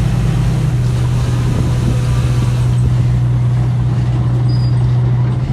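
Heavy earthmoving machine's diesel engine running steadily with a constant low drone.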